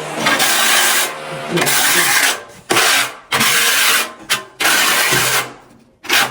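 Tile-laying work: a run of separate scraping and rubbing strokes, each under a second long, with short pauses between them.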